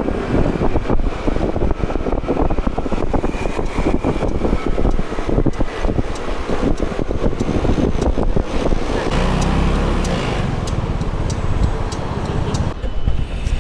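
City street traffic: road vehicles passing, with a deeper engine rumble from about nine seconds in until shortly before the end.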